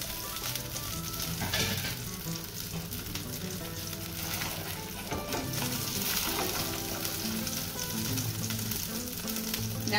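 A sauce-dipped tortilla frying in hot oil in a skillet: a steady sizzle.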